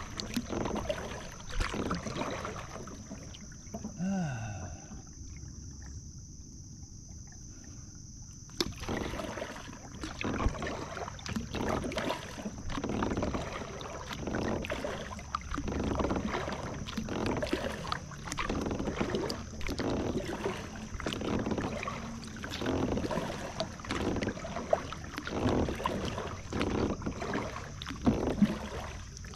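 Kayak paddle strokes dipping and pulling through calm water, a swish about once a second, with a quieter pause of a few seconds near the start. A faint steady high-pitched tone runs underneath.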